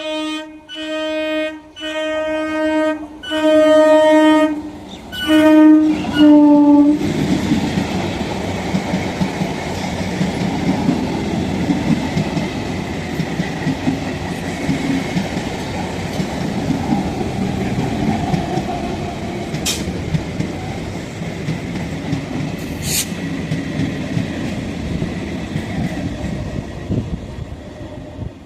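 Indian Railways train horn sounding in about six short blasts in quick succession, then the train passing close with a steady rumble and clatter of wheels on rail, fading near the end.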